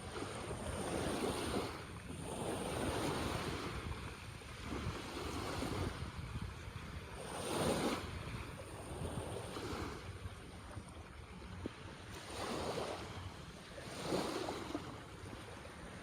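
Small sea waves washing in and breaking on the shore, the hiss swelling and falling every few seconds, with wind rumbling on the microphone.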